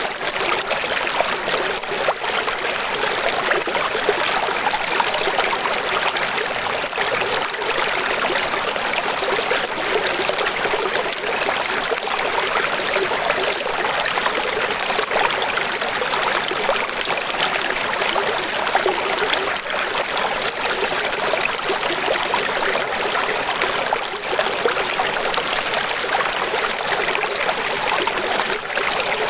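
Running water, a steady even rush with no let-up and little bass.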